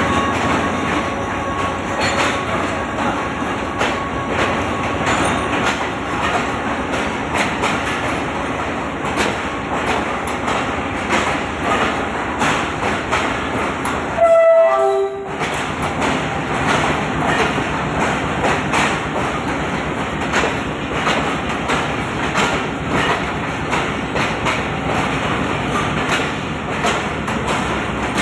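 Passenger train rolling through the station, its wheels clattering steadily over the rail joints, with one short horn blast about halfway through.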